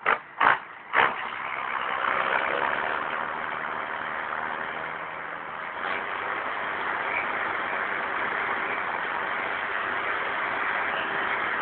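Three sharp knocks in the first second, then a John Deere 6910 tractor's turbocharged six-cylinder diesel engine running steadily.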